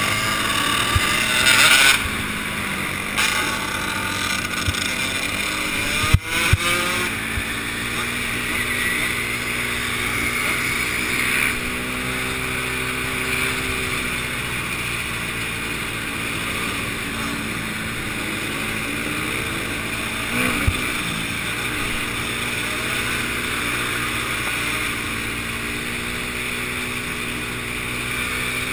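Enduro motorcycle engine running while the bike is ridden, its revs rising and falling through the gears. There is a sharp knock about six seconds in and a smaller one near twenty seconds.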